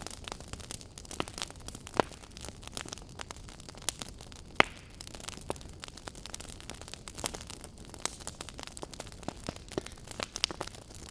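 Wood fire burning: a steady soft hiss with irregular crackles and pops, the loudest pops about two seconds in and again just before the middle.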